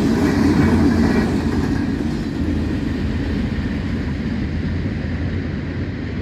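Freight train of gondola cars rolling past at speed: a steady, loud noise of wheels on rail that dulls and fades as the high end drops away from about two seconds in.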